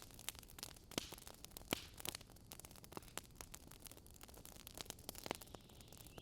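Wood campfire crackling: irregular sharp snaps and pops, several a second, a few louder than the rest, over a faint steady hiss.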